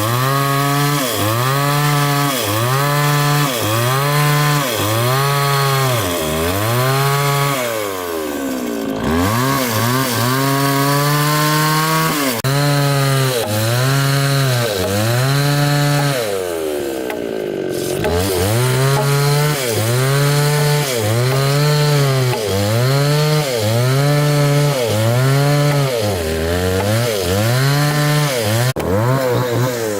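Chainsaw engine cutting into wood, its pitch rising and falling about once a second as the saw is worked through the cut. Twice it drops low before revving back up.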